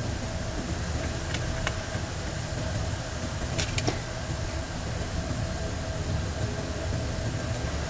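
Steady mechanical noise with a low rumble and a constant hum, with a few light sharp clicks, twice near the start and twice about halfway through.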